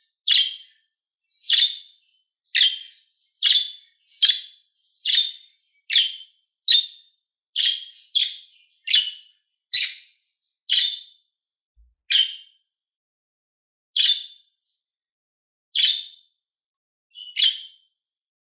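Budgerigar giving a series of short, sharp chirps, about one a second at first, then more spaced out toward the end.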